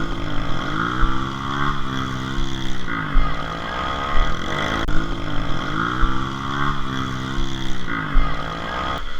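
Trail motorcycle engine revving up and down over and over, the pitch rising, holding and falling about every two and a half seconds.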